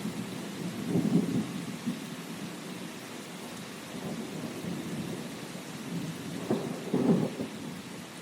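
Rain falling steadily, with low rumbles swelling up about a second in and again near the end.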